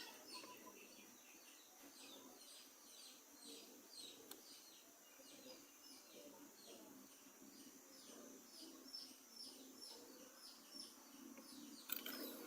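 Near silence, with a bird chirping faintly in the background: a steady run of short, high, falling chirps, two or three a second.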